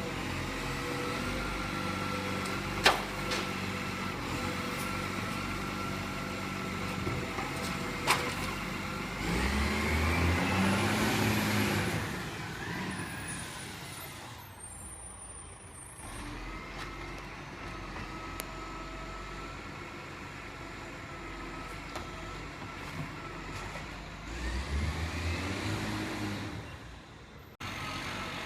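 Rubbish truck engine running steadily with a high steady whine over it, two sharp knocks a few seconds apart, then twice the engine revs up, rising in pitch, for a couple of seconds each time.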